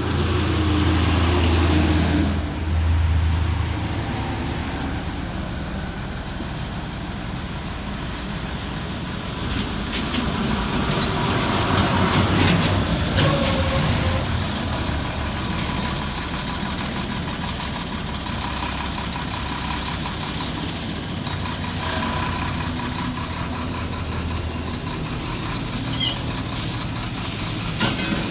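Heavy diesel earthmoving machinery running, with a steady low engine tone that grows louder and noisier about halfway through, as under load.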